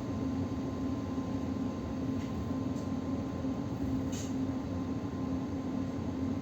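Inside an electric suburban train: a steady electrical hum over even running noise, with a few faint clicks.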